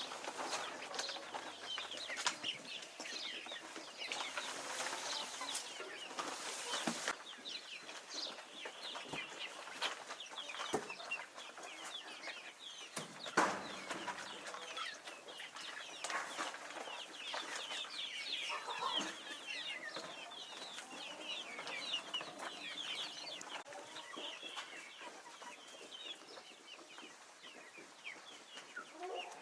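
A flock of young chicks cheeping continuously in many quick, high, falling peeps while they feed on wheat, with scattered small clicks and a short rustling hiss around five seconds in.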